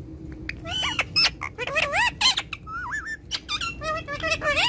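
Ringneck parakeet chattering in a quick run of short squeaky calls that swoop up and down in pitch, starting about a second in.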